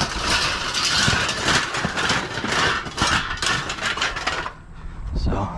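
Scrap and junk being handled: a dense clatter of knocks, rattles and scraping that stops about four and a half seconds in.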